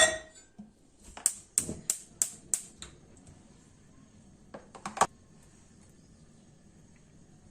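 Kitchen handling sounds: a ringing clink, then a quick run of about six sharp taps, roughly three a second, and two more taps a couple of seconds later.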